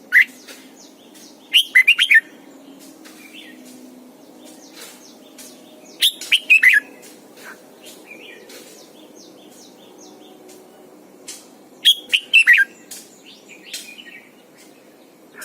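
Red-whiskered bulbul singing: three short, quick warbling phrases about five seconds apart, with softer single chirps between them.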